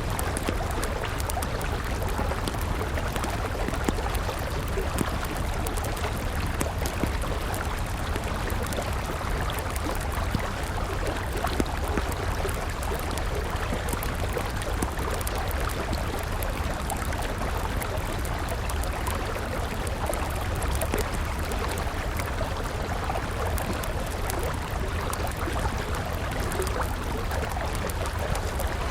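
A river rushing steadily, with a wood fire crackling over it in frequent small pops.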